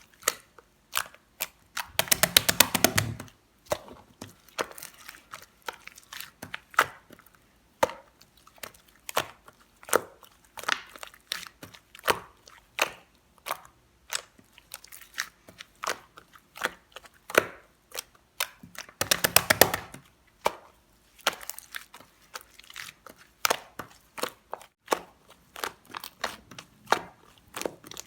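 Slime being squished and pressed by hand, making sticky clicks and small pops. Twice it breaks into a second-long run of rapid crackling pops: about two seconds in and again near nineteen seconds.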